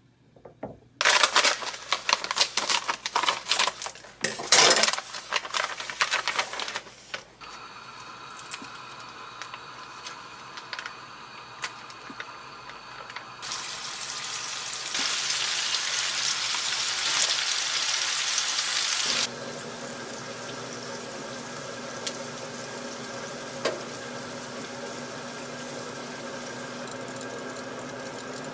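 Kitchen cooking sounds: loud irregular rustling and handling noises for the first several seconds. Then comes a steady hum, with a louder even hiss that starts abruptly about halfway through and cuts off about six seconds later.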